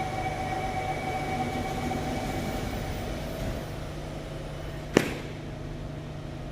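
Steady metro-station hum with a high two-note whine that fades away after about three and a half seconds, then a single sharp click about five seconds in.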